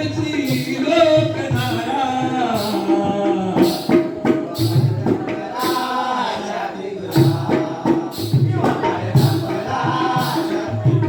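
Live Jakhadi folk song: a male voice singing over steady rhythmic percussion strikes.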